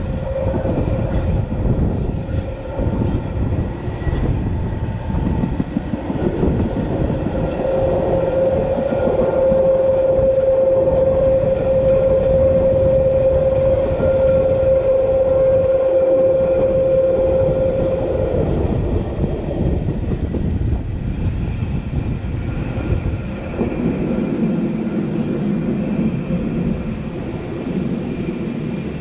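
Matterhorn Gotthard Bahn regional train, hauled by an HGe 4/4 electric locomotive, running along the line with a continuous rumble. A steady whine comes in about eight seconds in and fades out after about ten seconds.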